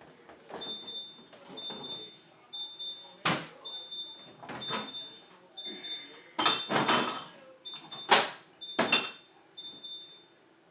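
A short high electronic beep repeating about once a second, under the knocks and clatter of things being handled and set down, the loudest about two thirds of the way through.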